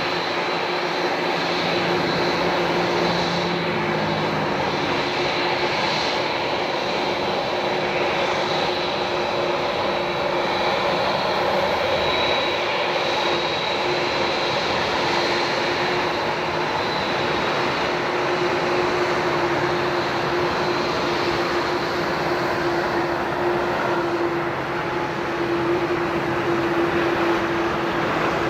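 Twin-engine jet airliner on landing approach, its engines giving a steady noise with a high whine and a lower hum held throughout.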